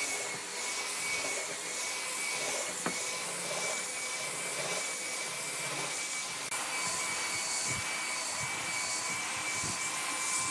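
Electric power tool motor running steadily, a constant high whine over a hiss.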